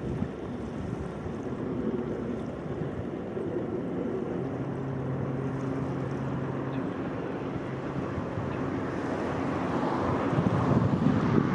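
Wind and lapping waves at the shoreline, with a low steady engine hum for a couple of seconds in the middle. Wind buffets the microphone more strongly near the end.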